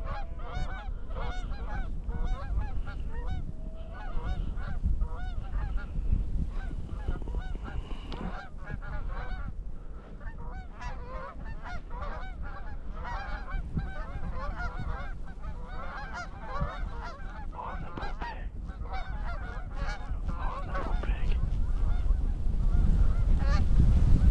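A flock of geese honking, many short overlapping calls with no break, over the low rumble of strong wind buffeting the microphone, which grows louder near the end.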